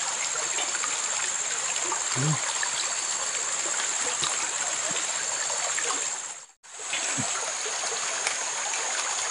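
River water rushing steadily past, a continuous hiss, with a steady high-pitched whine above it. The sound cuts out for a moment about six and a half seconds in.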